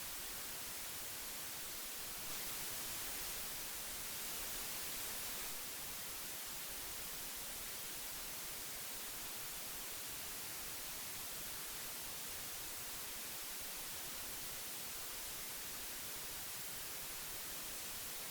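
Steady hiss of old magnetic tape playing back, an even high-pitched noise that gets slightly louder and brighter for a few seconds about two seconds in.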